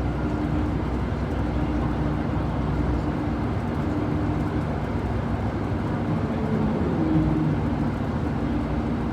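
City bus engine running and road noise heard from inside the passenger cabin, a steady low hum under an even rumble.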